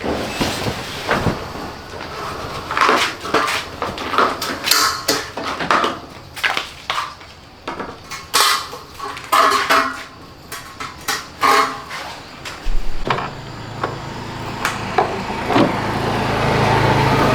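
Repeated knocks, clanks and clatter of hard parts and tools being handled on a front-loading washing machine. About thirteen seconds in, a steady low motor hum starts and grows louder as the machine is switched on and runs.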